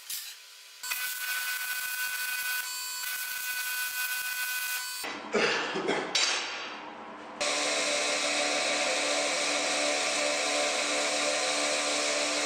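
A power tool running on steel parts, with two loud knocks about five and six seconds in. Then a louder steady run with a hiss starts suddenly.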